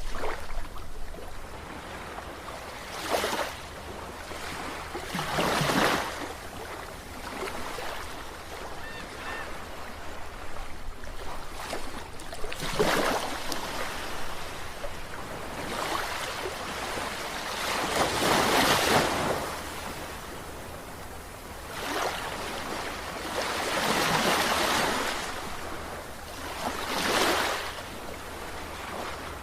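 Sea waves breaking and washing in, a swell of surf noise every few seconds between quieter stretches of steady wash.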